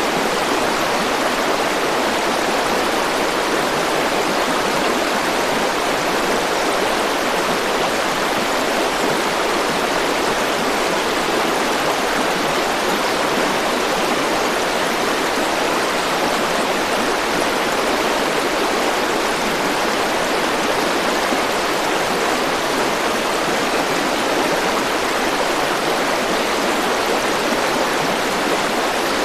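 A forest stream flowing in a steady, even rush of water.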